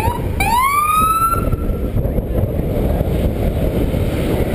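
Emergency vehicle siren: a last quick yelp, then one long rising wail that fades out about two seconds in. Under it runs a steady low rumble.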